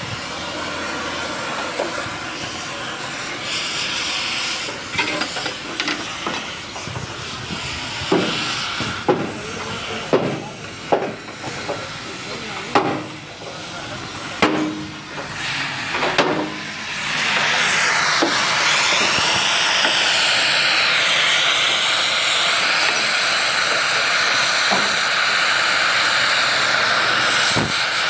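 A series of irregular sharp metal knocks, as in hammering rivets, over the first half; then, from a little past halfway, a loud steady hiss that runs on unbroken.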